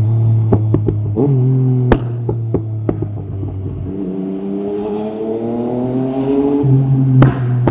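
Yamaha MT-09 SP's inline three-cylinder engine through an Akrapovic carbon exhaust with the dB killer out, easing off with a string of sharp exhaust pops, then pulling again with the revs rising steadily and another crack near the end.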